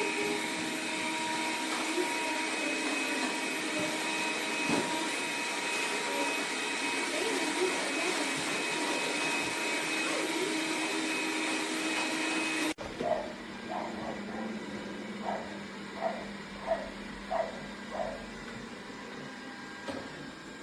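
Dreame D20 Pro Plus robot vacuum running, a steady suction whir with a few fixed whining tones. It cuts off about 13 seconds in. A quieter stretch follows, with a row of short pitched blips about two-thirds of a second apart.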